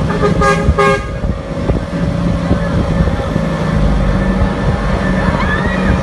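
A vehicle horn gives two quick toots in the first second, then a motor vehicle engine runs steadily amid street traffic noise.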